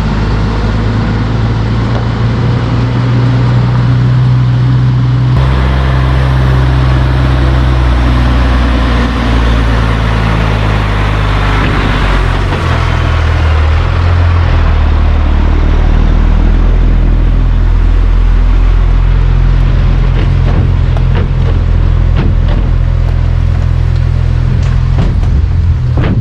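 Diesel semi-truck engine running steadily at low speed, its low drone shifting abruptly about five seconds in.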